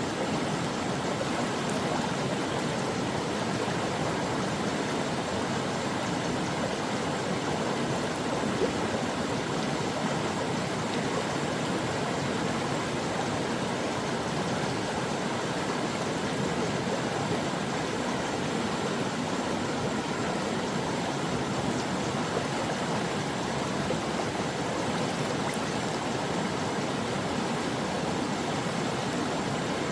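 Steady rushing and burbling of a flowing stream over rocks, a continuous even water noise.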